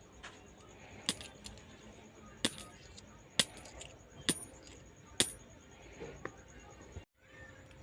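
Indonesian 500-rupiah 'melati' coins dropping one at a time: five sharp metallic clinks with a short high ring, about a second apart, then a fainter one.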